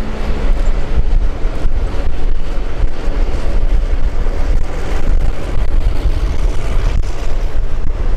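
Diesel locomotive and its passenger carriages rolling past below, heard through heavy wind buffeting on the microphone that gives a steady, loud low rumble.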